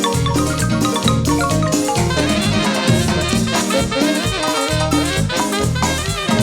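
Live band playing an instrumental stretch of a cumbia: a bright mallet melody over a pulsing bass and percussion.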